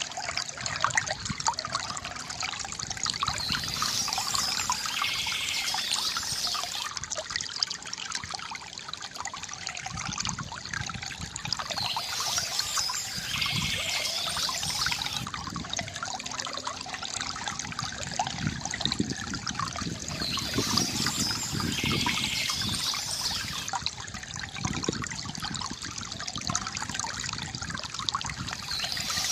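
Bamboo fountain with water trickling and gurgling steadily. Birds chirp over it in short spells that come back about every eight or nine seconds.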